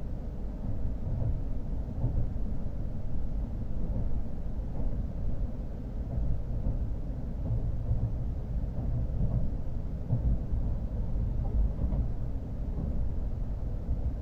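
Steady low rumble of an N700S Shinkansen running, heard inside the passenger cabin.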